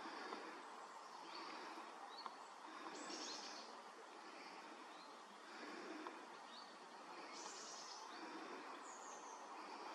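Quiet woodland ambience: small birds give short, high calls that fall in pitch, the clearest about three, seven and a half and nine seconds in, over a steady faint background noise.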